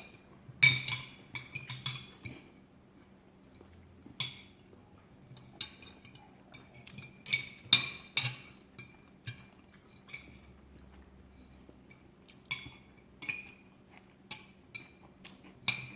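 Cutlery clinking against dinner plates while eating: irregular sharp clinks with a brief metallic ring, a few every couple of seconds, over a faint steady hum.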